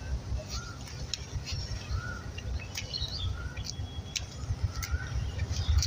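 Birds chirping outdoors: one short call repeats about every second and a half among sharp high chirps, over a steady low rumble.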